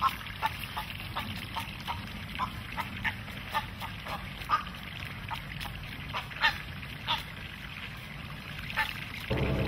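A bird giving short, harsh calls over and over, about two a second and unevenly spaced. Music comes in at the very end.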